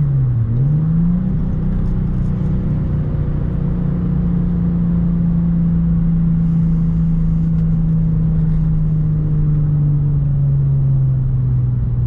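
Nissan 350Z's 3.5-litre V6 running through an aftermarket exhaust (ISR test pipes, custom H-pipe and Concept Z Performance cutback), with a raspy note the owner finds too raspy for his taste. The engine note dips and then climbs in pitch about half a second in, holds steady, and slowly eases down toward the end.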